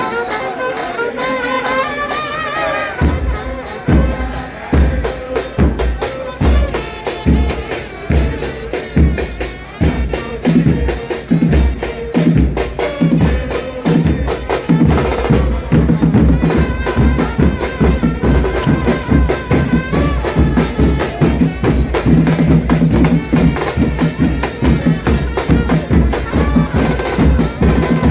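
Football supporters' drum band: bass drums (bombos) and percussion beat a fast, steady rhythm that comes in about three seconds in, with a wavering melody over it.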